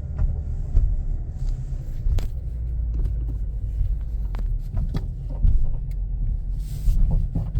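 Haval H3 front suspension knocking and creaking with irregular sharp knocks, over a steady low road rumble from the moving car. These are creaks and knocks that have appeared at 5,000 km.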